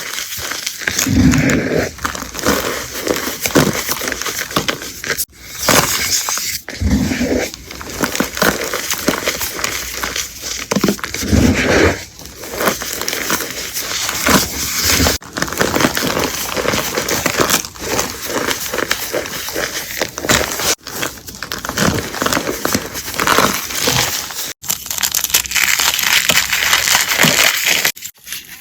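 Close-up crunching and crumbling of a dry, brittle material being crushed, dense with small cracks and crackles, in a run of short clips joined by several abrupt cuts.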